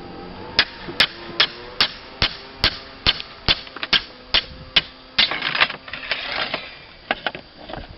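About eleven evenly spaced hammer blows, roughly two and a half a second, on a slate ripper, driving it to cut out a slate nail that holds a broken slate. After them come scraping and a few lighter knocks.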